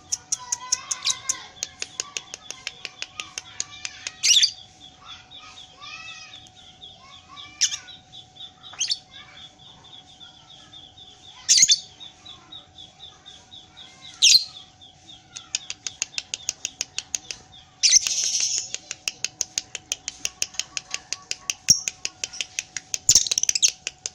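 Lovebird singing its long 'ngekek' chatter: a continuous run of rapid, clicky notes, about four a second, broken by about six loud, shrill squawks. A faint steady hum lies underneath.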